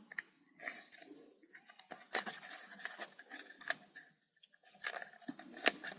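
Light rustling and scattered clicks of a straw being pushed through holes in a cup, with a few sharper ticks about two seconds in.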